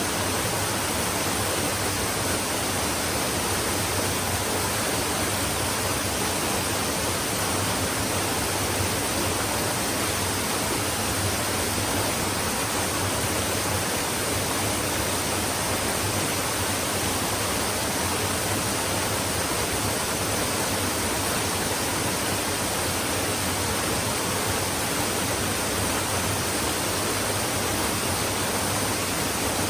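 Flowing stream: water running with a steady, unbroken rush.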